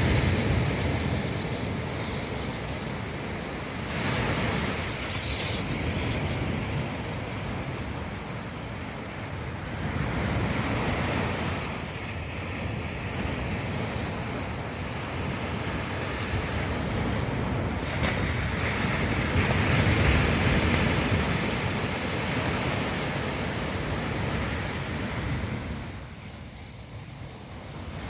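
Ocean surf: waves breaking and washing up the beach, the rush swelling and fading every several seconds, with wind rumbling on the microphone.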